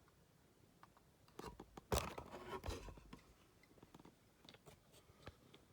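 Handling noise: quiet at first, then a cluster of clicks and rustling about a second and a half in, with a sharp knock around two seconds in, followed by a few scattered light clicks.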